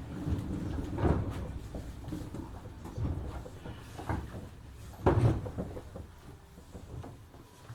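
Interior of a 103 series 1500 electric train: the running hum dies away as the train slows, and a few dull knocks and clunks follow, the loudest about five seconds in.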